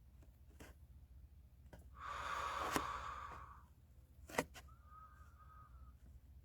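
A person's long, breathy sigh about two seconds in, lasting over a second, with a couple of sharp clicks, over a low steady hum.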